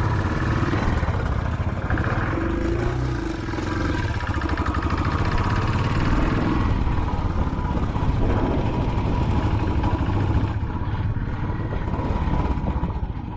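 Royal Enfield Classic 500 single-cylinder motorcycle engine running steadily.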